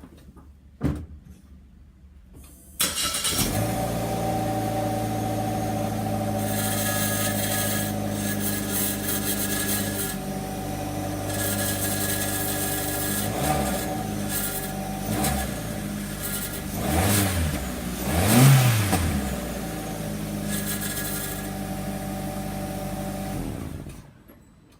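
Suzuki Ignis 1.2-litre four-cylinder heard through its stock muffler with a muffler cutter tip: a click, then the engine starts about three seconds in and idles steadily. Past the middle it is blipped four times in short revs, the last the biggest, settles back to idle, and is switched off shortly before the end.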